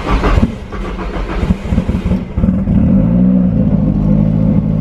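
Datsun 280Z engine cranking on the starter for about two seconds, then catching on the second attempt and firing up, with a short rev about a second later before settling into a steady idle through its newly fitted exhaust.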